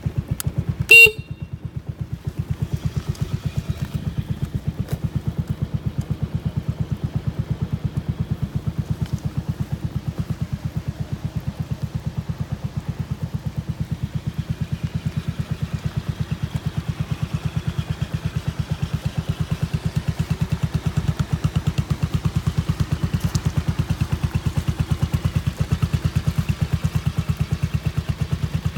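Yamaha Majesty 250 (4HC) scooter's single-cylinder four-stroke engine idling steadily with even pulses. About a second in, its horn gives one short, loud beep.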